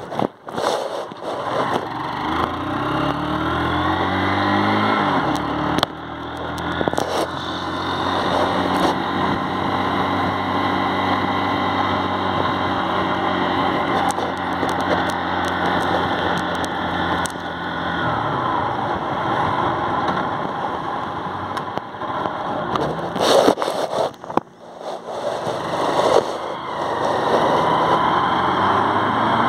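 Motorcycle engine pulling away, its pitch rising over the first few seconds, then running steadily while riding along. Near the end there is a brief dip with a few knocks before the engine note steadies again.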